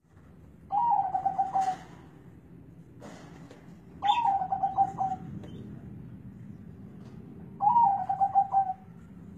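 Zebra dove (perkutut) cooing in a deep, bassy voice: three calls about three and a half seconds apart, each a short upward note followed by a quick run of pulsing coos.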